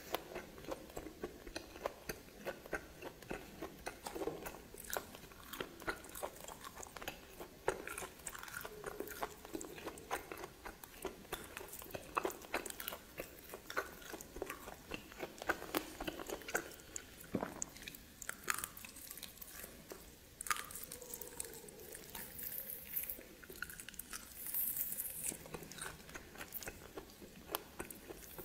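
A person chewing and biting steamed snake meat: a dense, irregular run of small crunches and mouth clicks, several a second.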